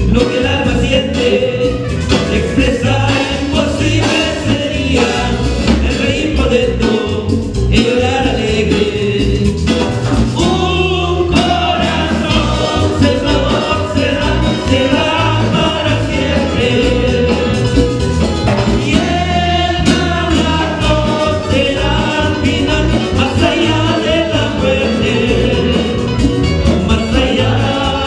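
Live Latin Christian worship music: a singer or small group singing over a band with bass and a steady rhythm.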